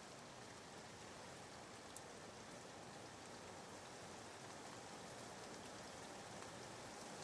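Faint, steady rain ambience, a recorded rain track used as soothing white noise, with one small click about two seconds in.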